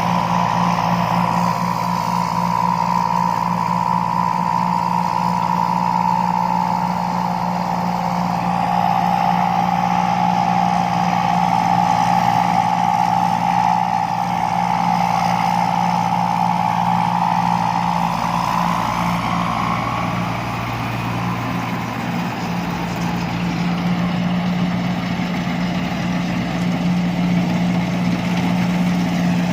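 Combine harvester's diesel engine running steadily, with a higher whine over it that dips a little in pitch, rises again about two-thirds of the way through, then fades.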